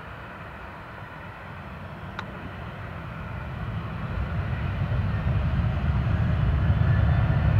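Jet airliner's engines on its takeoff run, a low rumble that grows steadily louder over the last few seconds.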